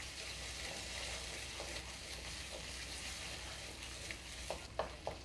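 Onion-tomato masala with fresh cream frying in oil in a steel kadhai over a low flame: a soft, steady sizzle while a wooden spatula stirs it, with a few light knocks of the spatula near the end.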